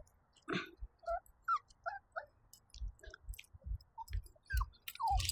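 Labradoodle puppies giving short, high whimpering squeaks, several in quick succession about a second in and a few more near the end, over soft low thumps.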